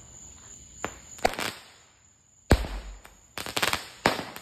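A consumer firework that has tipped over and is firing sideways, giving a string of sharp bangs: a single crack, a quick double pop, one loud boom about two and a half seconds in, then a rapid run of cracks near the end.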